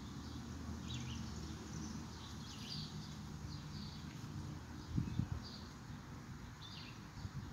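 Birds chirping in short, separate calls every second or so, with a couple of low thumps about five seconds in.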